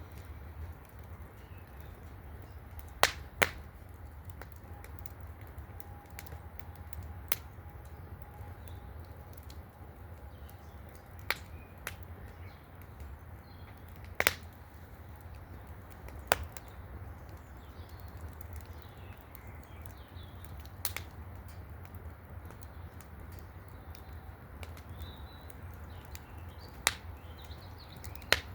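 Small wood fire in a fire basket crackling, with single sharp pops every few seconds at irregular intervals.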